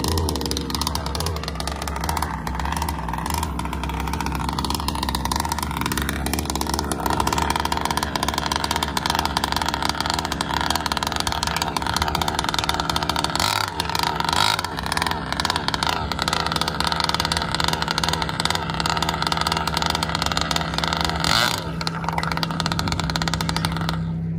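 Small gas-powered two-stroke RC boat engine, a ported Zenoah 30cc fitted with a tuned pipe, running at high revs. Its pitch rises and falls several times as the throttle changes.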